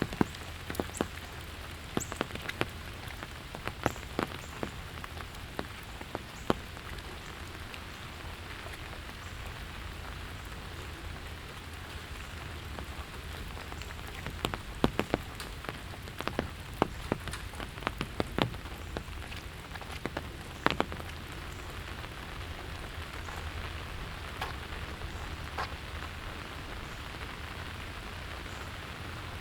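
Steady rain falling, with sharp, irregular drops hitting close by, bunched near the start and again around the middle.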